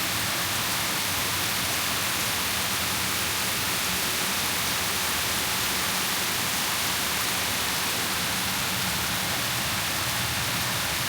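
Heavy rain falling steadily in a continuous downpour, an even hiss with no let-up.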